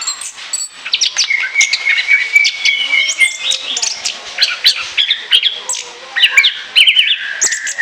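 Orange-headed thrush in full song: a continuous, rapid run of varied whistles, trills and chirps.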